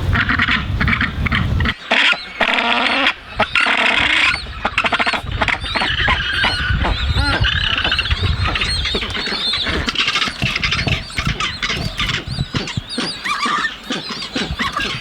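A crowded colony of Snares crested penguins calling, with many overlapping calls throughout, and the deep roaring of New Zealand sea lions in the first two seconds.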